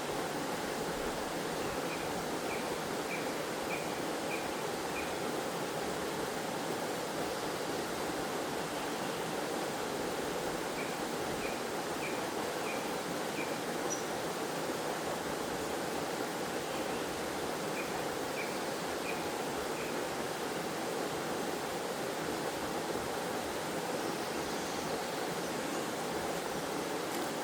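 Waterfall in a forest, a steady rush of falling and flowing water. Three runs of short high chirps, each a quick string of about five or six notes, sound over the water.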